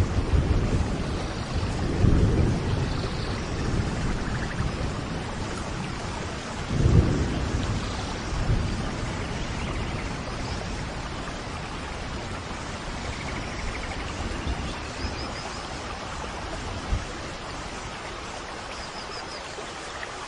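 Steady rain with low rolls of thunder, the strongest about two and seven seconds in.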